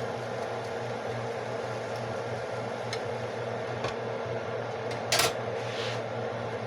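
Steady mechanical hum with a hiss over it, as from a kitchen appliance fan, with a short clatter about five seconds in.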